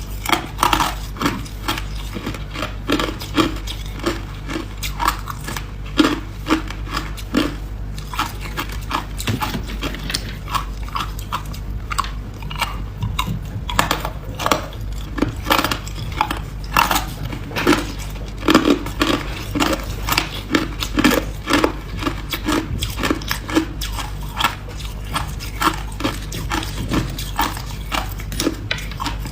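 Ice being bitten and chewed: dense, irregular crunching and cracking that goes on without a break.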